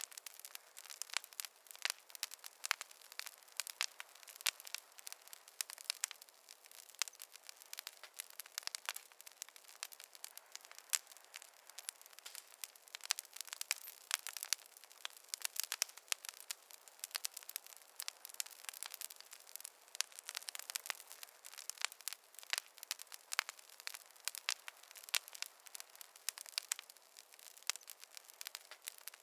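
Campfire crackling: a thick, irregular run of small sharp pops and snaps from burning wood.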